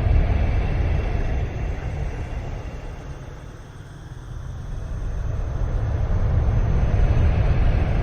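Strong gusting wind with a deep rumble, easing to a lull about halfway through and then building up again.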